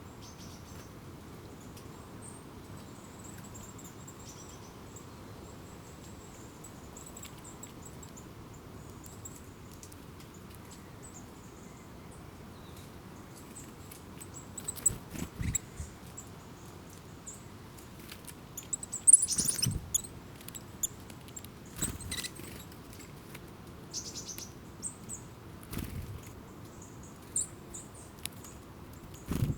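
Small birds calling with thin, very high-pitched chirps, in a steady run through the first half and scattered later, over a soft background hiss. A few short thumps or knocks break in now and then; the loudest, about two-thirds of the way through, comes with a burst of chirping.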